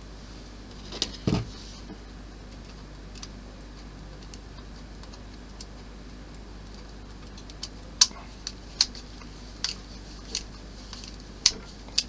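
Scattered small clicks and taps of a screwdriver and plastic model parts being handled while screws are driven in. There is a duller knock about a second in, and a run of sharp clicks over the last four seconds.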